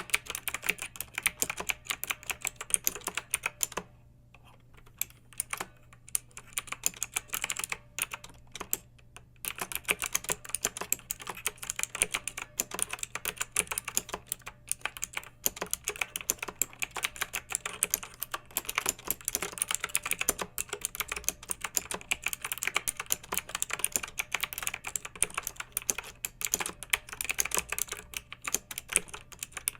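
Fast typing on a clicky mechanical keyboard, a dense stream of sharp keystroke clicks that pauses briefly about four seconds in and again near nine seconds.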